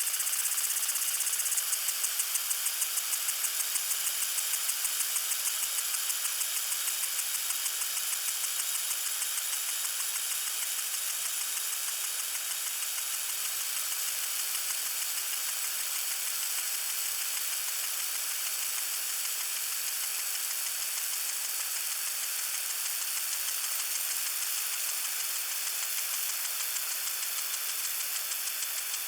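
Lawn sprinkler spraying water: a steady high hiss with a fast, regular ticking pulse running through it, most distinct in the first several seconds.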